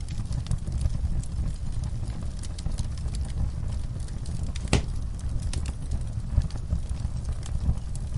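Wood fire burning in a fireplace: a steady low roar of flames with irregular crackles and pops, one sharper pop a little before halfway.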